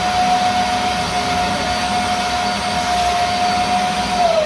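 MAG 3-in-1 wet and dry vacuum cleaner running, a steady high motor whine over rushing air, drawing suction at the nozzle. Near the end the whine starts to fall as the motor spins down.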